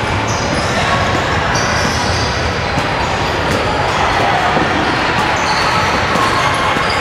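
Basketball game in a gym: the ball dribbling and bouncing on the court, with short high sneaker squeaks and crowd chatter echoing through the hall.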